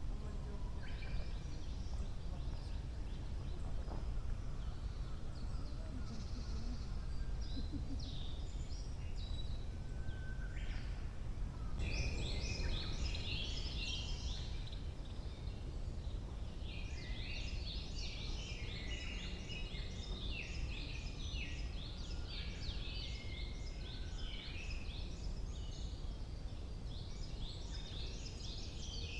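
Several woodland birds singing at once, with short chirps and trills overlapping. The song grows much busier past the middle. A steady low rumble runs underneath.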